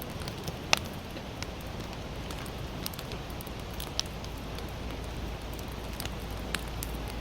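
Wood fire of sawtooth oak (kunugi) logs crackling, with scattered sharp pops about once a second over a steady low hiss and rumble.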